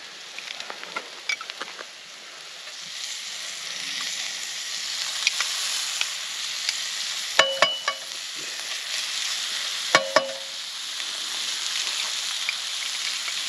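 Filet mignon sizzling in a pan of rosemary and garlic butter, a steady frying hiss that grows louder after a couple of seconds. A metal utensil clinks against the pan twice, each time as a quick double clink, about halfway through and again a few seconds later.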